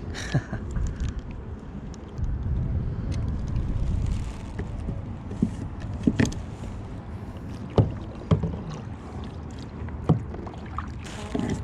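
Handling noise in a kayak on the water: a low rumble, with a few sharp knocks and clicks against the hull, loudest about six, eight and ten seconds in.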